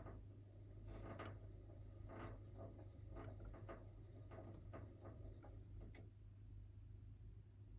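Near silence: a washing machine at rest with a low steady hum, faint irregular ticks and clicks over the first six seconds, and a faint high whine that stops about six seconds in.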